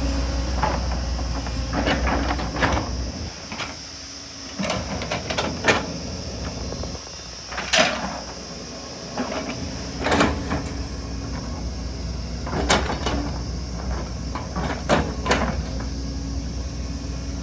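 Excavator's diesel engine running under varying load, its low hum dropping away for a moment twice, with repeated sharp clanks and knocks from the bucket working rock and earth.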